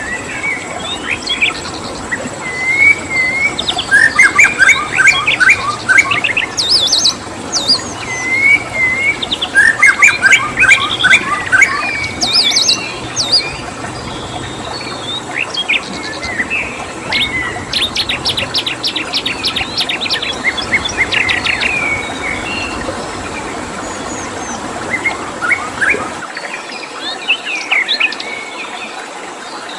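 Wild songbirds chirping and singing in bursts of fast, repeated trilled notes over a steady rush of flowing stream water, with a thin, steady, high cricket tone underneath. Near the end the low part of the water rush drops away.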